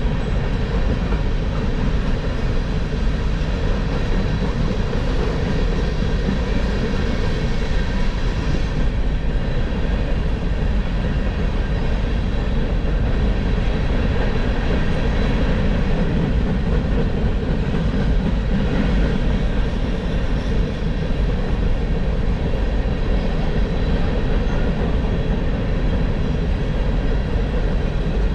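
Freight train rolling past at steady speed, the noise of its wheels and cars running on without a break.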